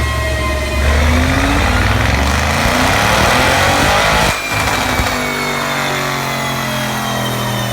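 Audi RS7's twin-turbo V8 accelerating hard, its note climbing in pitch for about three seconds. The sound then breaks off sharply, with a single crack, and settles into a lower, steady engine note.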